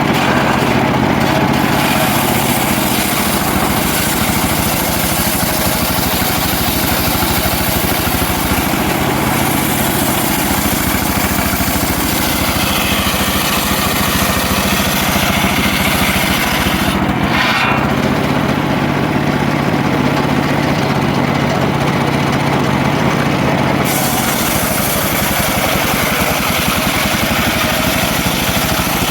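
Engine-driven homemade circular sawmill running steadily while sawing a mahogany log, with a brief change in the sound partway through.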